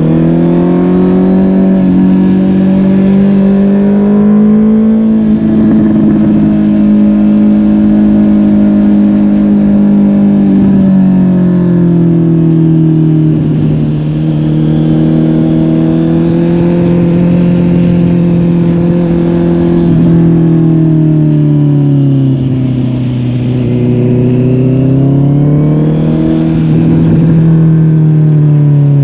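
Honda CB650R's inline-four engine through a MIVV GP PRO Carbon aftermarket exhaust, running under way. Its pitch climbs and falls gently with the throttle several times, easing off and picking up again.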